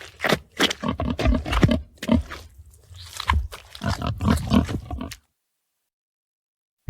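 Creature sound effect voicing the extinct mammal Andrewsarchus: a rapid run of short, rough animal calls, several a second. It breaks off suddenly about five seconds in.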